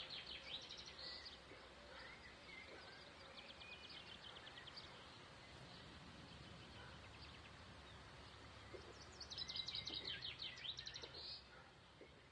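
Faint birdsong of quick high chirps and trills, with a louder run about nine seconds in, fading away near the end.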